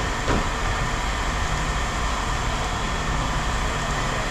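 Steady machinery hum with several steady tones, and two short knocks right at the start.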